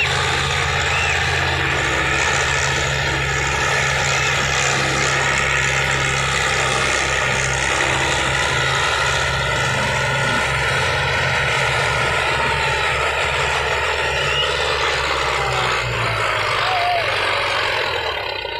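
Diesel tractor engines running hard in a power-pulling test, a steady loud drone, with a few short voices over it.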